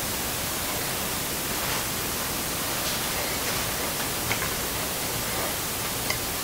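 Steady hiss, with a few faint soft clicks and smacks of a person chewing a mouthful of cheesecake.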